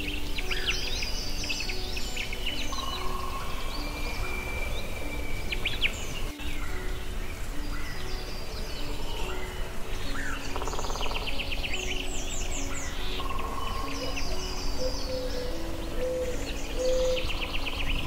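A chorus of forest birds calling: many short, rapid chirping trills repeating throughout, over a slow line of soft low music notes and a steady low rumble of ambience.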